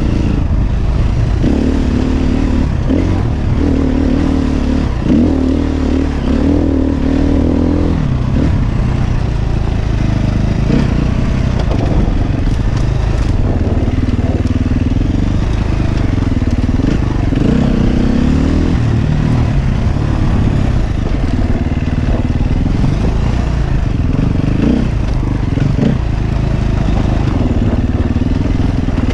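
KTM 350 Six Days dirt bike's single-cylinder four-stroke engine under way on the trail, the revs rising and falling again and again as the rider works the throttle, heard from a helmet camera.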